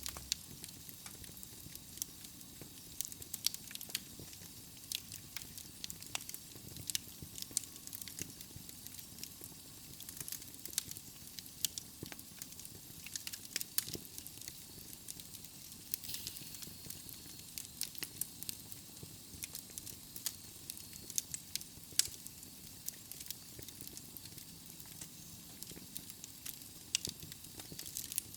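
Wood logs burning in a fireplace, crackling with frequent, irregular sharp pops over a steady hiss from the flames.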